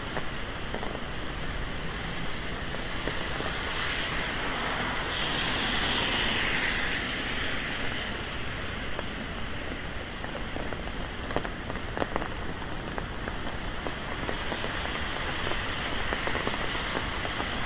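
Steady rain falling on a city street. A louder hiss swells and fades about five seconds in, and a few sharp drip taps come later.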